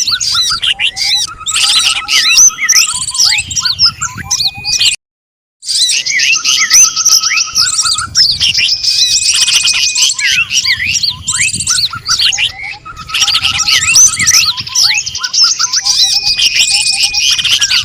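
Dense mix of many small songbirds chirping, whistling and trilling over one another: an edited bird-lure (pikat) call track for attracting small birds. The sound cuts out completely for about half a second about five seconds in, and the same stretch of calls repeats roughly every seven seconds.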